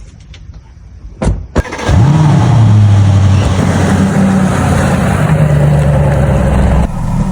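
A vehicle engine starts about two seconds in, after a few clicks, and runs loudly at a fairly steady pitch. Near the end the sound drops off abruptly.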